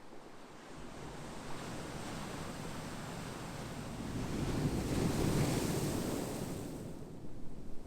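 Ocean waves: the surf rises from about a second in, is loudest around five to six seconds in, then washes out and fades near the end.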